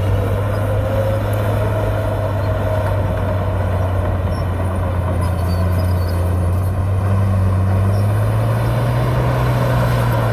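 Heavy diesel engine of a dump truck or bulldozer running steadily under load, its pitch rising slightly about eight seconds in.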